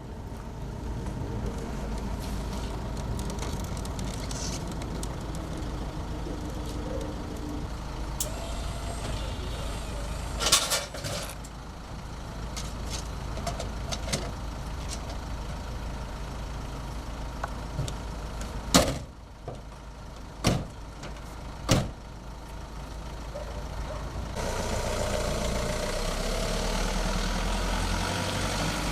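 A steady low mechanical hum, like an engine running, with sharp knocks and clicks of tools working on a wheelchair whose screws have come loose: one about ten seconds in and three more between about nineteen and twenty-two seconds. The hum grows louder near the end.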